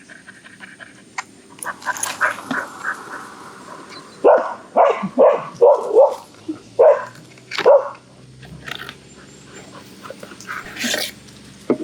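A dog barking about seven times in a quick series, around half a second apart, in the middle of the stretch, with a single further bark near the end.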